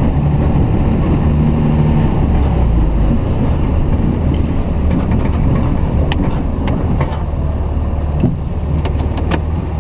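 Cummins diesel truck engine running steadily under load while plowing snow, heard from inside the cab. A few short clicks and knocks sound over it, several close together near the end.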